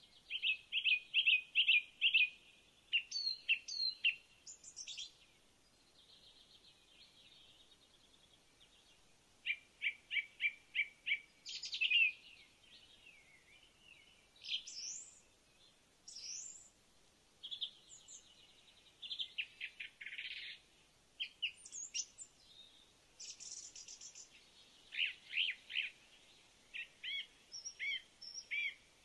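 Birds chirping and calling, in quick runs of short, high, evenly spaced chirps broken by rising whistled notes, with short pauses between phrases.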